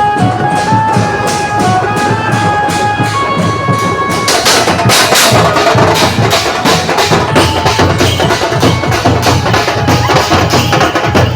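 Live procession music: drums beat a fast, even rhythm of about three to four strokes a second, with a melody instrument playing held notes over them for the first few seconds. About four seconds in, the sound gets louder and fuller.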